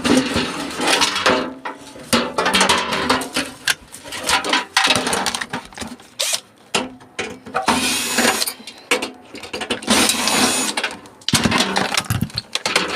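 Clattering and knocking of a microwave's metal and plastic parts as it is taken apart, in a busy, irregular run of clicks and knocks.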